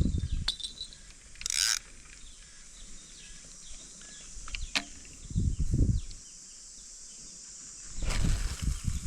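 Steady high-pitched insect chorus, with low rumbling bursts of wind or handling on the microphone at the start, around five and a half seconds in, and near the end, and a short rustle about a second and a half in.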